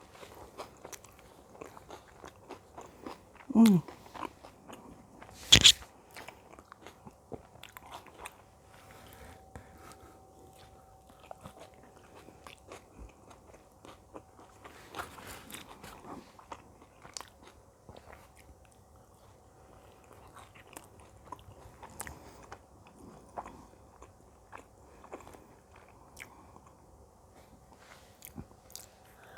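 Close-miked eating: biting and chewing pizza, with many small wet mouth clicks. A short falling hum of the voice about four seconds in and a sharp knock just under six seconds.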